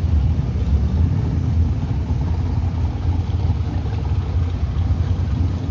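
Drag race cars' engines rumbling steadily and low, with no revving or launch.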